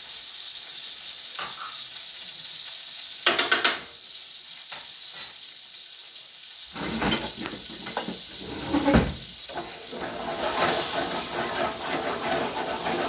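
Garlic sizzling in hot oil and butter in a skillet, a steady hiss. A few sharp clinks of a spoon and jar come about 3 s and 5 s in. From about 7 s a utensil knocks and scrapes in the pan, with the loudest knock near 9 s, and the sizzle grows louder near the end.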